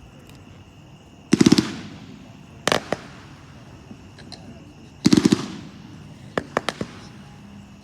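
Golden Waterfall, a 30-shot consumer firework cake, firing. A quick volley of several launch pops comes about every three and a half seconds, and each volley is followed over a second later by a few sharp cracks as the shells burst.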